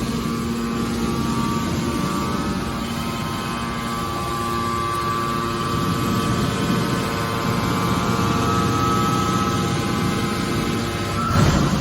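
Hydraulic metal baler running: a steady machine drone with a whine from its hydraulic power unit, and a single sharp metallic hit near the end.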